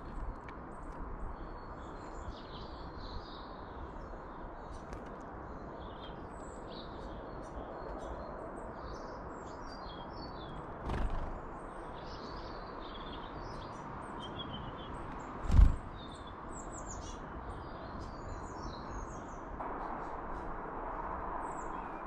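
Small garden birds chirping and singing in short high phrases over a steady background hiss, with two brief low thumps, the louder one about two-thirds of the way through.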